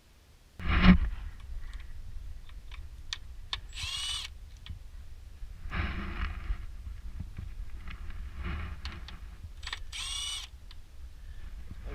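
A power tool whirring in two short bursts, with knocks and clatter of tools and parts; it opens with a loud knock.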